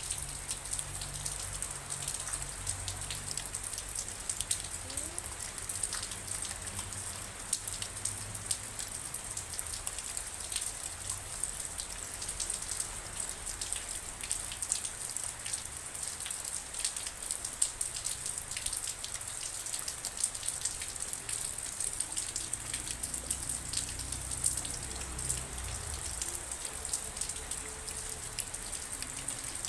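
Steady rain, with a dense patter of many separate drop hits over a continuous hiss.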